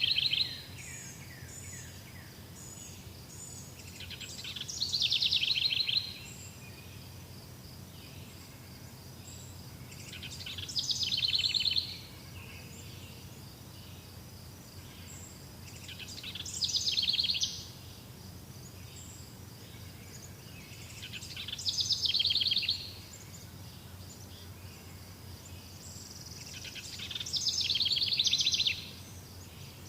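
A songbird singing the same short song about every five and a half seconds, six times, each phrase falling in pitch and ending in a fast trill. A faint steady high buzz runs underneath.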